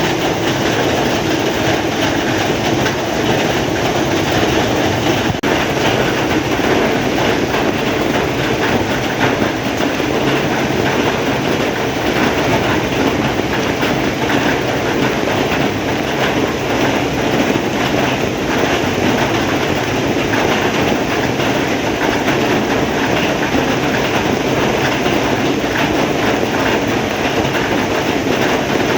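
Heavy rain falling, a steady, dense hiss that does not let up.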